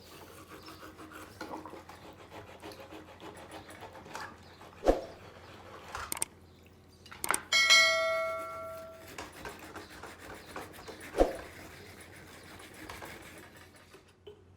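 Small parts handled on a workbench: light scraping and rustling with a few sharp knocks. About halfway through, a metal piece is struck and rings with several overtones, dying away over about a second.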